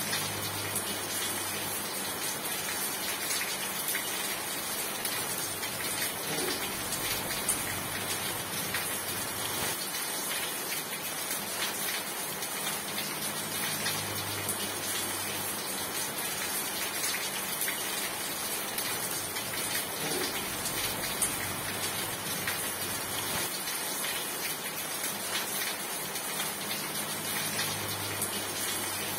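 Steady rain falling, an even rush of water with many small, sharp drop hits on a surface throughout.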